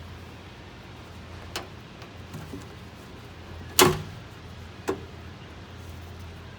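Three sharp metal knocks from work on the furnace mounting, as screws and brackets go into the sheet-metal housing. The loudest comes a little before the middle, the other two about two seconds before it and a second after it, over a steady low hum.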